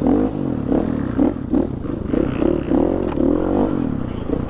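KTM dirt bike engine being ridden, its pitch rising and dropping over and over as the throttle is opened and shut, with a few short knocks of the bike over rough ground.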